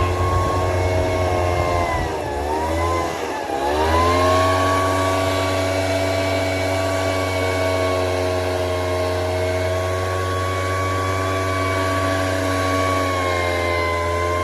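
A motor running steadily with a pitched hum. Its pitch sags from about two seconds in and recovers shortly before four seconds, as under a passing load, then holds steady.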